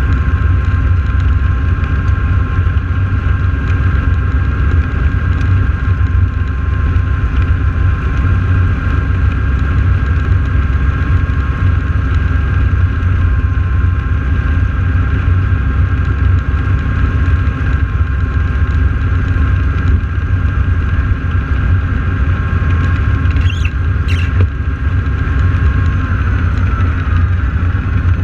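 Radial engines of T-6 Texan warbirds idling on the ground before takeoff: a steady low rumble with a high steady whine that dips slightly in pitch near the end. Two brief clicks come about three quarters of the way in.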